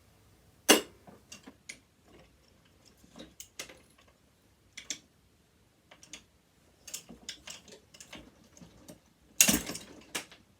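Sewing machine parts being worked apart by hand: scattered clicks and knocks of plastic and metal. A sharp click comes just under a second in, and near the end a loud, brief cracking burst as a plastic piece of the machine snaps.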